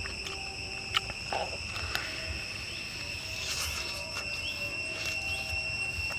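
Insects trilling steadily in one high unbroken tone, with a few sharp clicks in the first two seconds.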